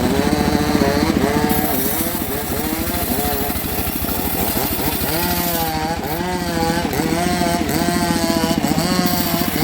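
Engine-driven saw cutting wood: the motor runs continuously, its pitch dipping and recovering again and again as the blade takes load.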